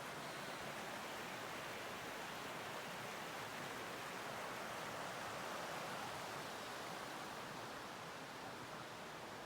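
Mountain stream flowing steadily, a continuous even rush of water.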